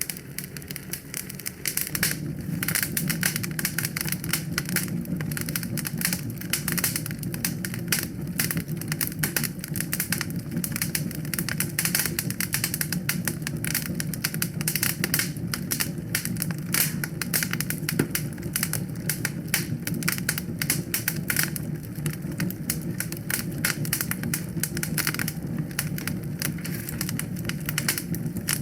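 Wood fire in a fireplace crackling: a dense, irregular run of quick pops and snaps over a steady low rumble.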